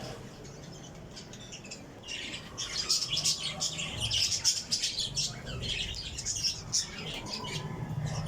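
Many small birds chirping together in rapid, overlapping calls, quieter for the first couple of seconds and then busier.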